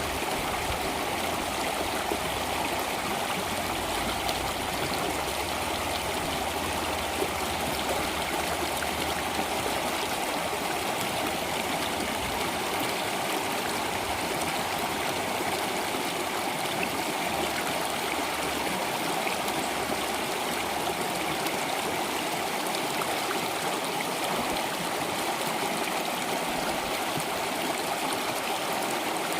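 Flowing water, a steady, even rush of a stream that does not change.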